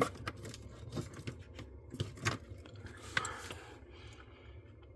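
A few light clicks, taps and scrapes of hands handling things, spaced irregularly, over a low steady hum.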